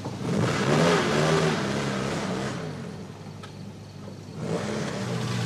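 Car engine revving up as the car pulls away, its pitch rising and dropping in steps as it accelerates, then fading before a second swell near the end.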